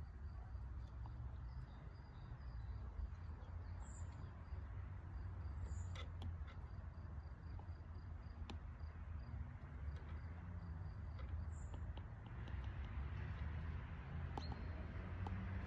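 Outdoor ambience: a steady low rumble with an insect chirping in a regular high-pitched pulse, and a few short bird chirps.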